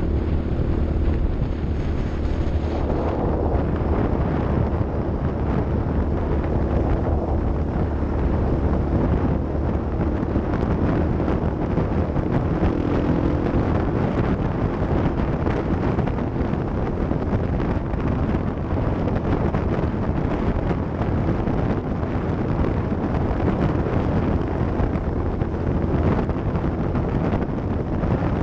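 Off-road vehicle driving, its engine running steadily under rough, continuous road and wind noise, with wind buffeting the microphone.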